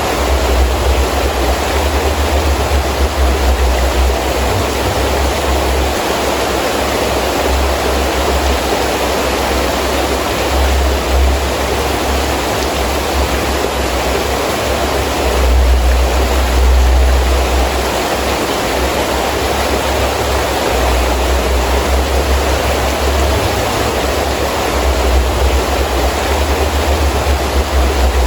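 Heavy rain falling steadily with gusting wind, the wind's low rumble rising and falling and swelling strongest about halfway through.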